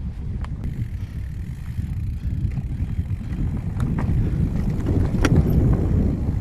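Mountain bike being ridden on sandy singletrack: wind buffeting the microphone over the rumble of the tyres on the trail, with scattered sharp clicks and rattles from the bike. The loudest click comes about five seconds in.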